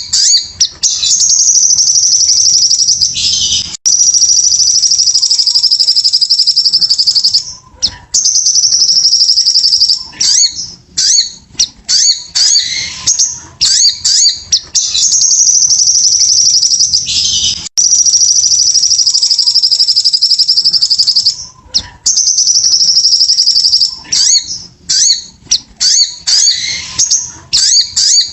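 Sogon (spiderhunter) song: long, very fast, high-pitched trills lasting several seconds each, broken by short chirps. The same run of phrases comes round again about every 14 seconds, as a looped lure recording used to get other birds singing.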